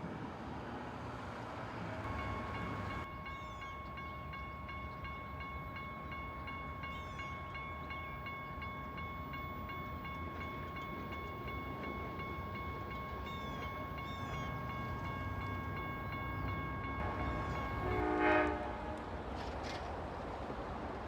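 Amtrak train passing with its locomotive horn held on one long steady note over a low rumble. A brief, louder call sounds near the end.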